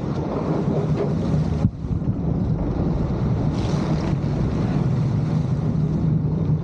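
Sportfishing boat's MAN diesel engines running with a steady low hum, with wind buffeting the microphone and water rushing by. There is a brief hiss about four seconds in.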